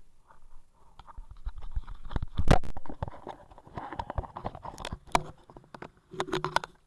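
A series of irregular knocks and clicks, the loudest about two and a half seconds in.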